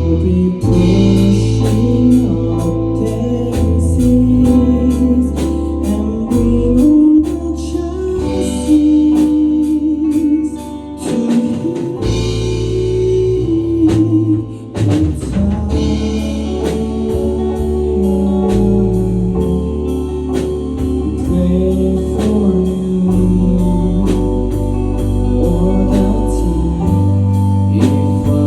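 Band music with a steady drum-kit beat and bass, and singing over it.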